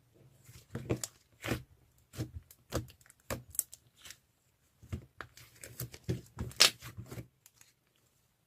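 Slime being squeezed and worked by hand: a run of crinkly, crackling pops and squishes that stops about a second before the end.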